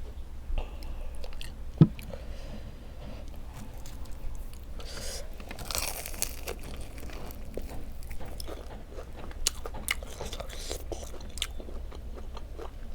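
A person eating close to the microphone: biting, chewing and crunching with many small wet clicks. A single sharp knock about two seconds in is the loudest sound.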